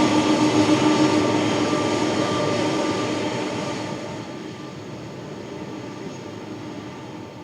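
Jet engines of the Boeing 747 Dreamlifter, a steady noise with a held whine in it, fading away over the second half.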